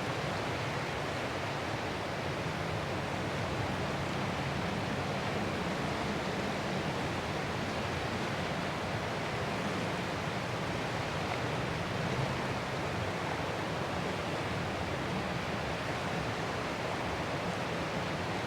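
Ocean surf as a continuous, even rush of noise, with no single wave break standing out.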